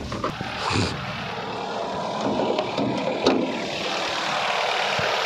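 Ford Fusion petrol engine idling steadily just after being started, with a few light knocks over it.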